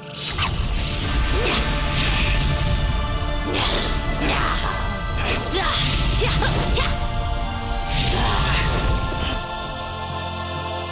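Cartoon fight sound effects: a series of whooshes and crashing hits over a low rumble, with dramatic music underneath. The rumble and hits die down about a second before the end, leaving the music.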